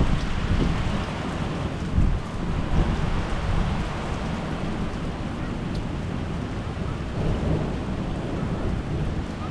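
Thunder rumbling over steady rain. The low rumble swells in the first few seconds, then eases to a steadier rumble under the rain.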